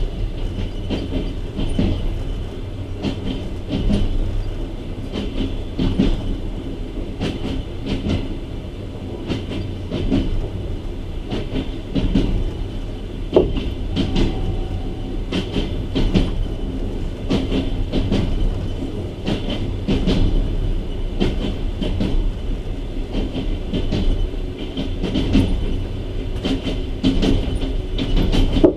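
A moving passenger train's coach wheels clattering over the rail joints, with many short clicks over a steady low rumble.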